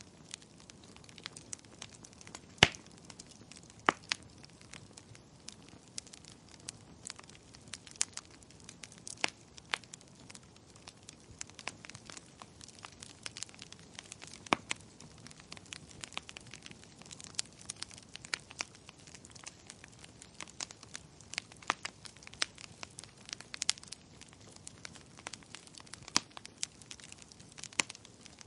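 Fireplace fire crackling: irregular sharp pops and snaps, several a second, over a faint steady hiss. The loudest pop comes about two and a half seconds in.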